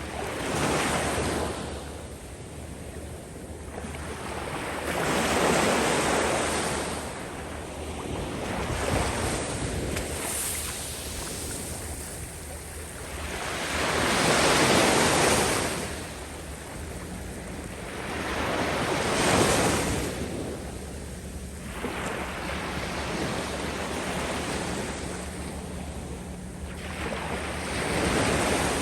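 Sea waves breaking and washing up the sandy shore, each surge swelling into a hiss and ebbing away, about every four to five seconds.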